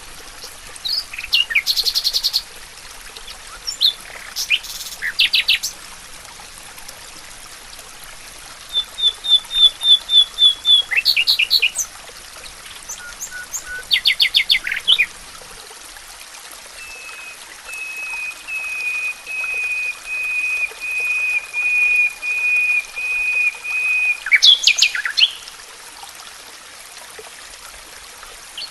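Songbirds singing: short, separate phrases of quick notes and trills, then a long run of evenly repeated notes, about four a second, that grows louder for some seven seconds. Under them runs a steady hiss.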